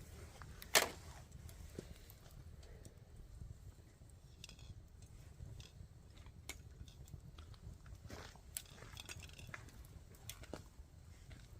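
Campfire wood crackling and popping: scattered irregular snaps, one louder pop about a second in, over a low steady rumble.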